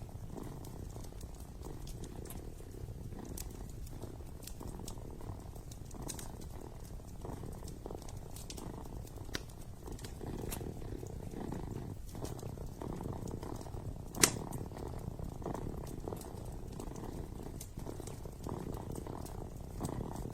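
A kitten purring steadily and closely, with a wood fire crackling: scattered small snaps and one sharp pop about two-thirds of the way through.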